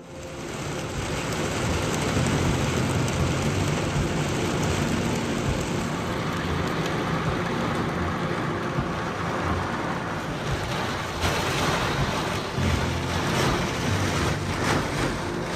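Strong wind buffeting the microphone: a steady rushing noise with irregular low rumbles, gustier over the last few seconds.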